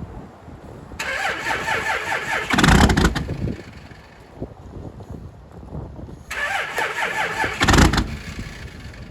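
An engine cranked by its starter on a cold start, in two attempts of about two seconds each; each ends in a brief, louder low burst, then the sound drops back to a low murmur.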